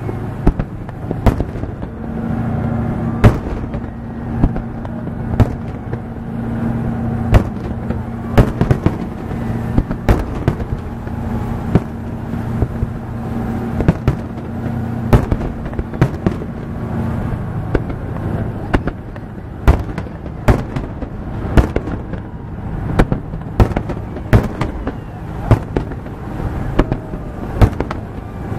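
Fireworks display: aerial shells bursting in an irregular run of sharp bangs, about one to two a second, over a continuous background rumble. A steady low hum runs under the bangs from a couple of seconds in until a little past the middle.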